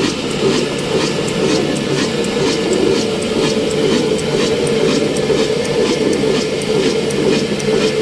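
Old 22/24 HP, 300 rpm diesel oil engine running steadily while driving a flour mill, with an even, repeating clacking beat over a dense mechanical din.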